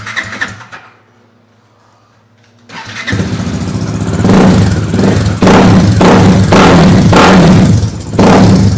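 Bajaj Dominar 400's single-cylinder engine, breathing through an aftermarket R9 exhaust with the dB killer removed, cranks and catches about three seconds in. It then runs and is revved in about five quick blips in a row. A few light clicks come before the start.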